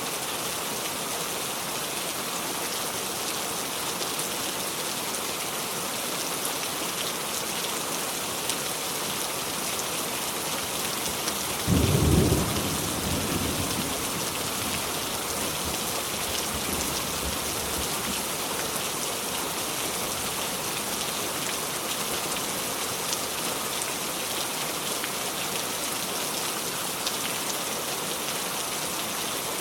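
Steady heavy rain falling on surfaces. About twelve seconds in, a short low boom stands out above the rain and fades over a couple of seconds.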